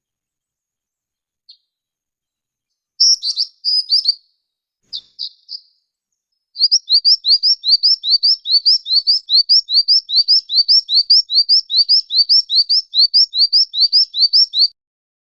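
Jinjing batu (black-winged flycatcher-shrike) calling: after a few short clusters of high chirps, a long rapid series of short rising notes, about four a second, that stops shortly before the end.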